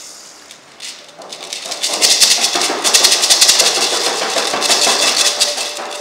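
Hand percussion shakers rattling fast and hard: a dense shaking that builds about a second in, stays loud for several seconds and eases off near the end.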